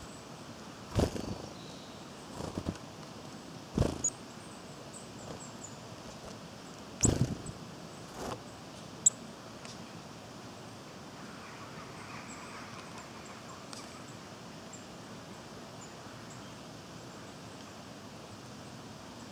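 Small woodland birds at a feeding spot: a handful of irregular knocks and taps over the first nine seconds, the loudest about seven seconds in. Brief, faint high-pitched calls sound over a steady background hiss.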